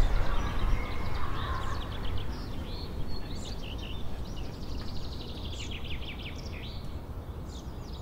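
Songbirds chirping, with quick runs of repeated trill notes, over a steady low background rumble.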